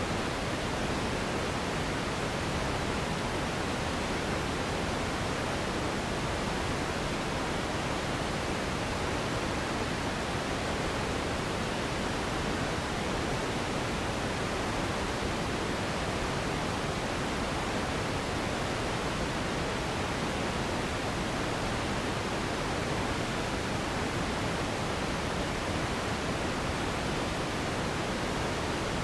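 Steady synthetic pink noise, an even unchanging hiss with a slightly deeper, softer tone than white noise.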